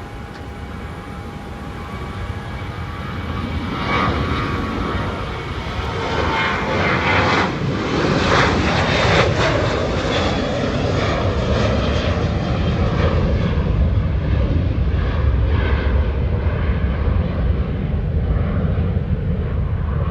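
Boeing 737-700's CFM56 jet engines at takeoff power, with a steady whine at first under a roar that builds over the first several seconds. The roar is loudest around the middle, then its high edge fades as the jet passes and climbs away.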